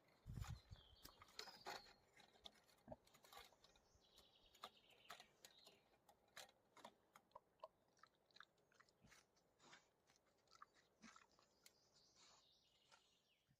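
Near silence: faint irregular clicks and crunching, with a brief low thump near the start and faint high twittering in the background.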